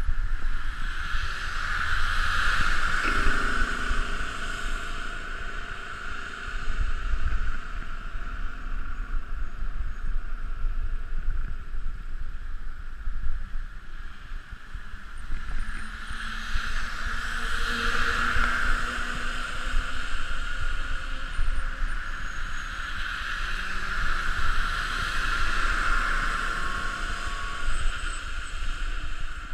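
Wind rushing over the microphone with the road noise of a bicycle coasting fast downhill. A hiss swells and eases several times over a steady low rumble.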